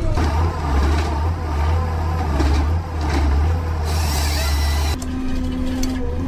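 Heavy forestry harvester's diesel engine running with a deep, steady drone. About five seconds in the sound changes: the drone drops away and a steady mid-pitched tone takes over.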